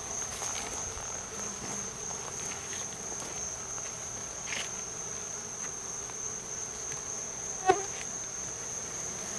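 Steady, high-pitched chorus of crickets, with a low hum of honeybees beneath it. A single brief sharp knock comes late on.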